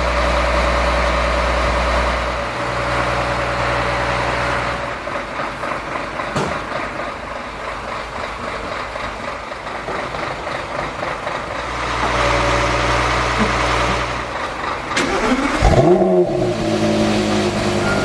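Porsche Carrera GT's 5.7-litre V10 engine and exhaust running steadily. About fifteen seconds in, the pitch swings quickly before it settles back into a steady run.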